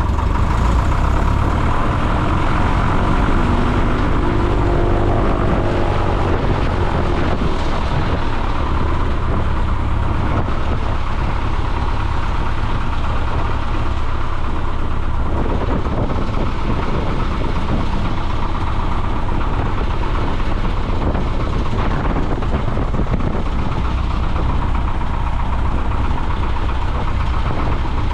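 Piper J-3 Cub's small piston engine and propeller running steadily, heard from inside the cabin as a loud, even drone.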